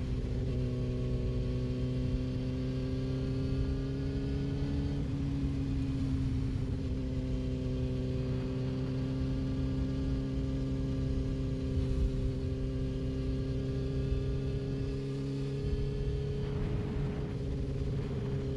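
Yamaha R6's inline-four engine running at steady revs under way, its pitch creeping up slightly, then dipping about five seconds in and holding steady.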